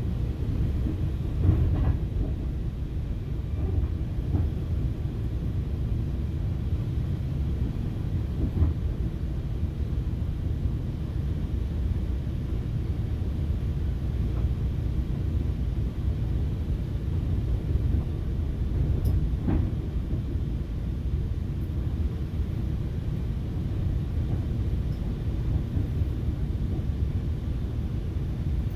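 Steady low rumble inside a moving FrontRunner commuter train, with the wheels running on the rails and a few faint knocks.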